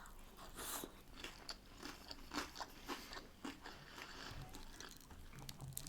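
A person chewing a mouthful of battered fish and chips, giving a run of faint crisp crunches and small clicks.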